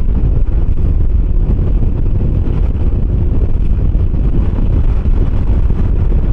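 Wind buffeting the microphone on a moving 125cc Kymco motor scooter, a loud steady rush with the scooter's engine running underneath.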